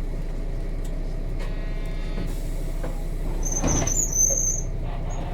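Nissan Diesel RM route bus with its FE6 diesel engine running steadily, heard from inside the cabin. A little past halfway through there is a short, louder burst of noise with a brief high squeal.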